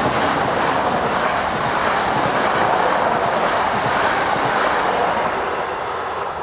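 A Newag Impuls electric multiple unit passing close at speed, making a steady rush of wheels on rails and displaced air. The sound fades near the end as the last car goes by.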